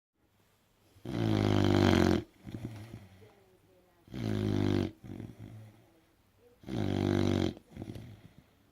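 American bulldog snoring loudly: three long snores about three seconds apart, each followed by softer, ragged breathing.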